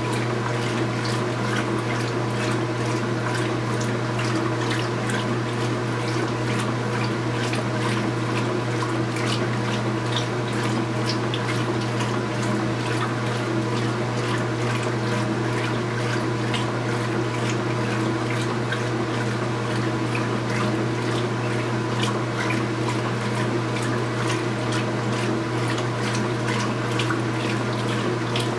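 Speed Queen 8 Series top-load washing machine filling: water runs and splashes steadily into the tub over a constant low hum.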